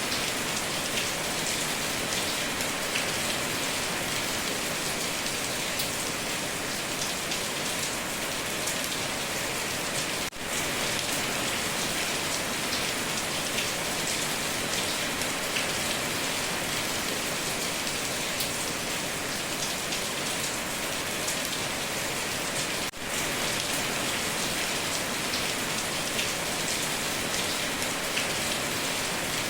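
Heavy rain falling steadily on a tin roof, a dense even patter with countless drop impacts. The sound briefly drops out twice, about ten and twenty-three seconds in.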